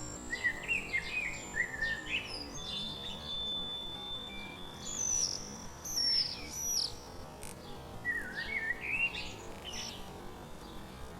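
Songbirds singing: bursts of quick chirping phrases, short high whistles that slide up and down, and a couple of long, thin held whistle notes.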